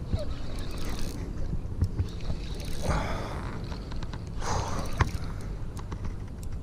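Steady low rumble of wind on the microphone, with a few short hissing puffs.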